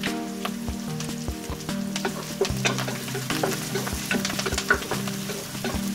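Sliced onions and curry leaves sizzling in hot oil in a non-stick pot, being fried until crisp and lightly browned. A wooden spatula stirs them, with frequent taps and scrapes against the pot.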